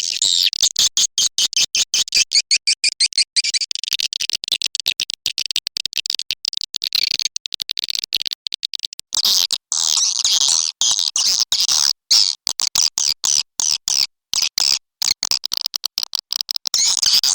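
Swiftlet calls: rapid, high-pitched chirping and clicking twitter in fast trains with brief breaks, growing fuller about halfway through. A swiftlet call sound, the kind played to lure edible-nest swiftlets into a nesting house.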